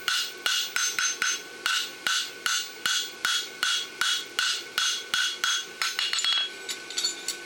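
Farrier's hand hammer striking a hot steel bar shoe on the anvil in a steady rhythm, about two and a half blows a second, each blow ringing. The blows thin out near the end.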